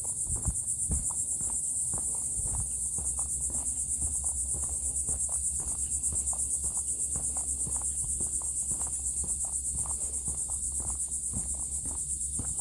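A steady, high-pitched insect chorus that pulses rapidly and does not let up. Beneath it are footsteps at a walking pace, about two a second, knocking on boardwalk planks.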